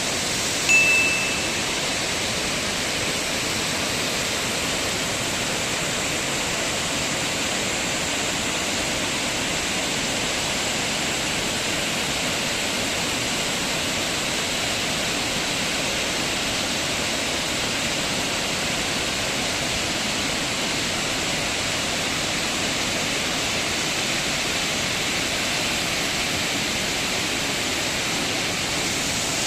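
Steady rushing noise of running water, even and unbroken. About a second in there is a single short, high-pitched tone.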